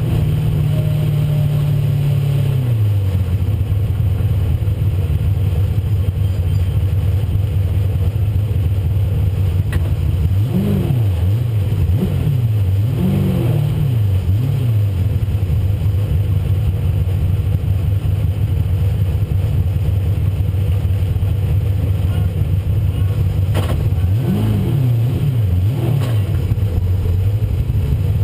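1996 Ford Mustang race car's engine running hard at speed. Its pitch steps down a few seconds in, then dips and climbs again several times in two spells, about ten seconds in and again near the end.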